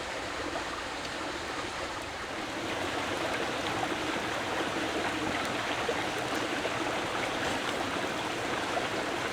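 Steady rushing of flowing water, growing slightly louder about two and a half seconds in.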